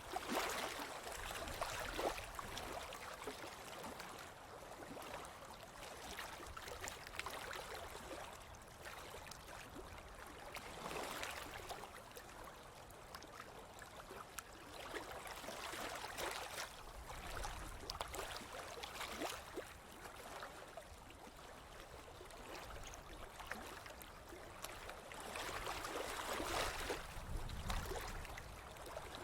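Ocean waves washing onto a beach, the surf hiss swelling and easing every several seconds.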